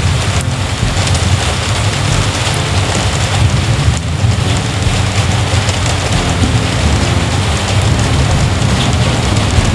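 Heavy rain falling steadily and loudly, with a continuous low rumble of thunder underneath.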